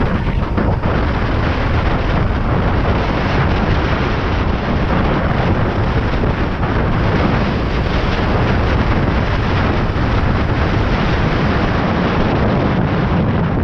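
Loud, steady wind rush buffeting the microphone while riding a 72-volt Razor MX650 electric dirt bike at road speed.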